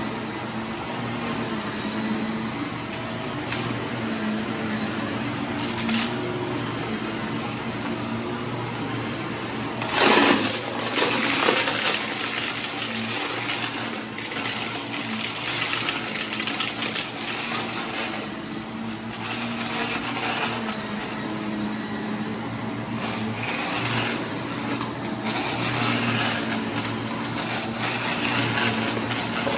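Vacuum cleaner running steadily and sucking up scattered debris, with irregular rattling and crackling as pieces are pulled in, loudest about ten seconds in.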